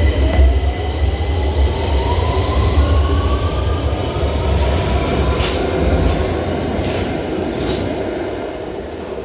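Electric train pulling away and accelerating: its traction motor whine rises steadily in pitch over a deep running rumble, the sound fading slowly near the end.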